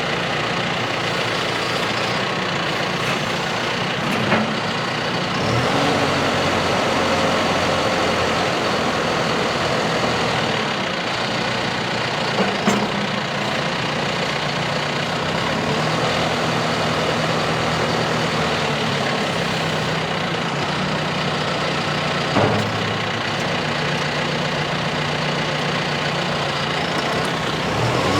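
John Deere 6120E tractor's four-cylinder turbo diesel engine running at idle. The engine speed steps up and down a few times, with a few short knocks along the way.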